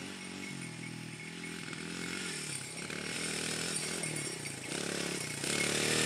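Honda dirt bike engine running, its speed rising and falling as the throttle is worked. It grows louder toward the end.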